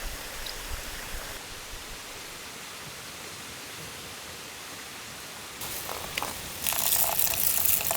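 A steady rushing hiss. From about six seconds in, louder irregular crackling and rustling noises come in, with short clicks.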